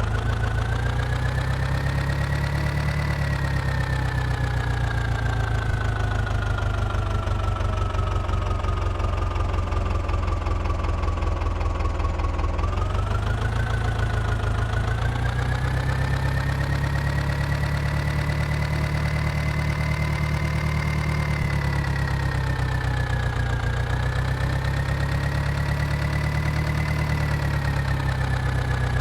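Mahindra tractor's diesel engine running continuously, with a whine whose pitch slowly rises and falls as the engine speed changes. The pitch jumps up partway through.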